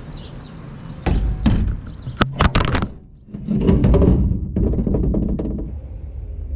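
A string of sharp knocks and clanks, then a couple of seconds of dense clattering, rushing noise that fades away.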